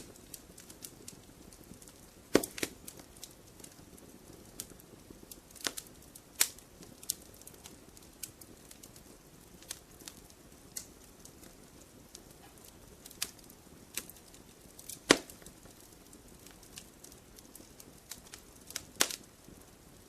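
Fireplace fire crackling, with sharp irregular pops over a faint low hiss; the loudest pops come a couple of seconds in and about three-quarters of the way through.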